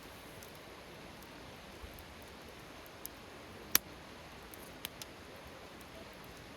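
Wood campfire burning with a faint steady crackle and a few sharp pops; the loudest pop comes just past the middle.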